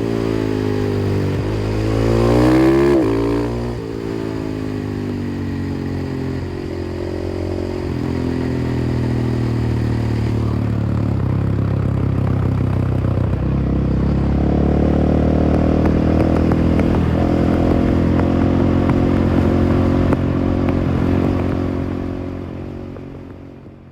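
KTM 500 EXC-F single-cylinder four-stroke engine through an FMF exhaust, revving up and dropping back about three seconds in, then running at a fairly steady throttle before fading out near the end.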